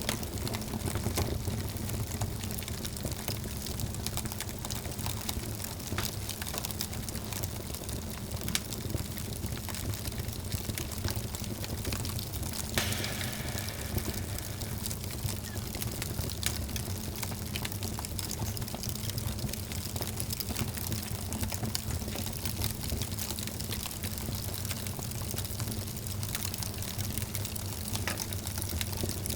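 Wood fire burning in a fireplace, crackling and popping continuously over a low rumble of the flames, with a sharper snap about thirteen seconds in.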